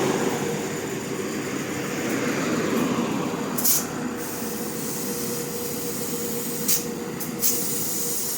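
A machine running steadily with a constant hum. Short sharp hisses of compressed air come about a third of the way in and three more times near the end, typical of air going into a truck tire or being let out at its valve during a pressure check.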